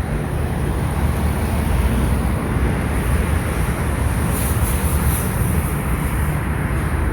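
A vehicle running steadily: a continuous low rumble.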